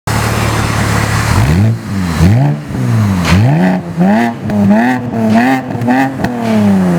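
BMW Z4 E89 sDrive23i's 2.5-litre straight-six, through an aftermarket full stainless exhaust, idling and then revved in a series of about seven quick throttle blips, its revs falling back toward idle near the end.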